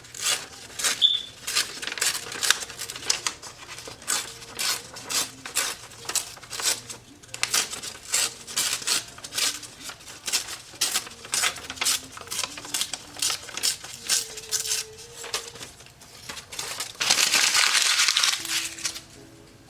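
Pencil tracing over a paper sketch: short scratchy strokes, about two or three a second, with one longer continuous scratch near the end.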